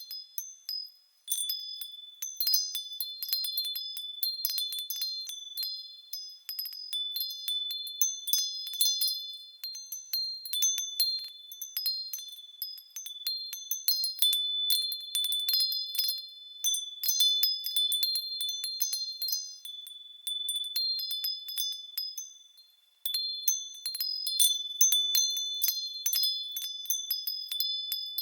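Japanese furin wind chimes ringing as they sway in the wind: clusters of quick clinks over several sustained high notes. The ringing dies away briefly about a second in and again about five seconds before the end.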